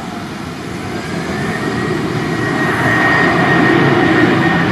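Jet airliner's engines growing steadily louder as the aircraft approaches, with a steady high whine coming in about a second and a half in.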